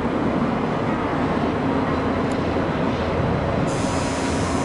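N700-series Shinkansen train passing: a steady running noise with a low hum, joined near the end by a high steady whine.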